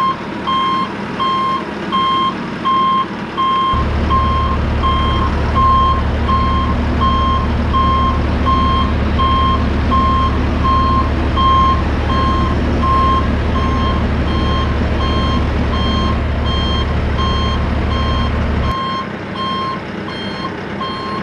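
Forklift backup alarm beeping steadily about twice a second while the forklift moves with a skid steer on its forks. A deep engine drone comes in about four seconds in and drops away near the end.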